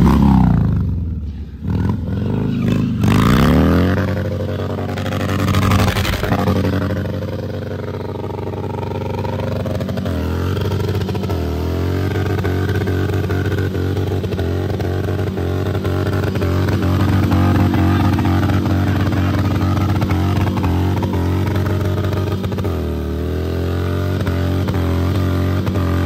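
Harley-Davidson V-twin motorcycle engine revving hard in the first few seconds after a burnout, then settling to a steady idle. It is blipped briefly twice later on.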